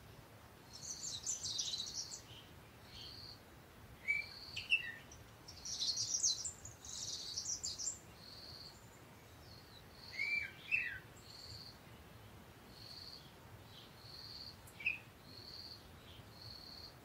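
Birds chirping: a short high note repeated about once a second, with bursts of quick twittering and a few sharp falling chirps.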